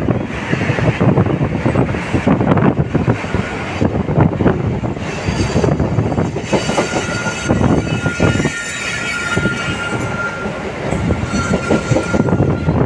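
Rumble and clatter of a moving passenger train's wheels over the rails, heard from an open window of the train. A thin, steady high whine joins in about halfway through and stops near the end.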